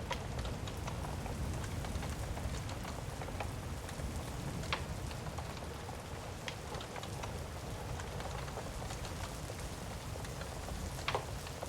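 Steady rain ambience with a low rumble underneath, broken by a few sharp isolated pops of a crackling fire.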